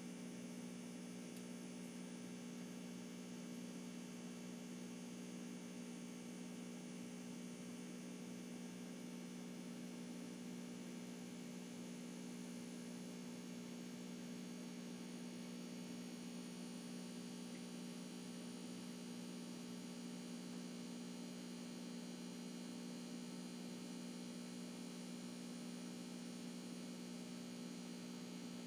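Steady, low electrical hum with a few faint higher tones, unchanging throughout.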